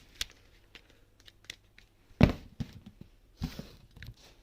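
A few light clicks and knocks, with a loud dull thump about two seconds in and another about a second later, like things being handled and set down.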